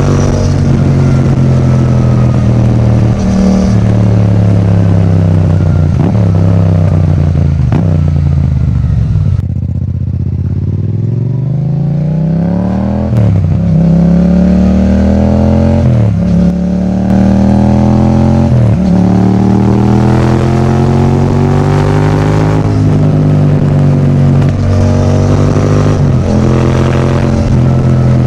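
Yamaha MT-07's 689 cc parallel-twin engine through an Akrapovič titanium exhaust, revving up through the gears with a quick drop in pitch at each upshift. About ten seconds in it falls off to low revs with the throttle closed, then pulls away again, shifting up several times.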